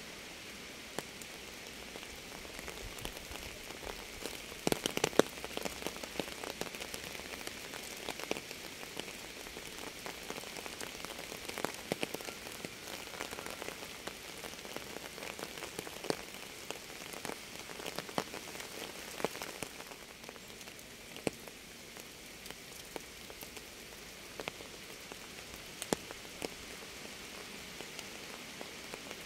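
Steady rain with many individual raindrops tapping sharply on a surface. A short flurry of louder drop hits comes about five seconds in.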